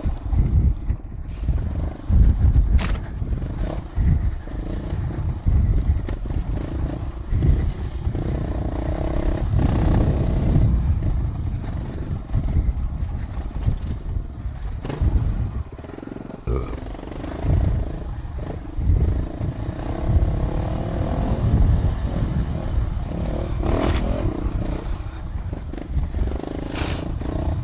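Dual-sport motorcycle engine running on a trail ride, its note rising and falling as the throttle is worked, under a heavy low rumble of wind and vibration on a helmet-mounted microphone.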